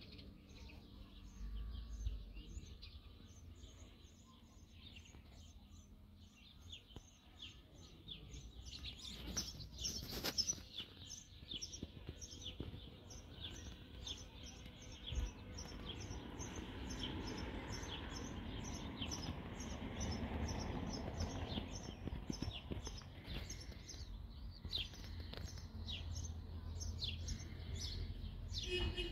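Small birds chirping, a long run of short high notes repeated several times a second. A low background noise swells in the middle.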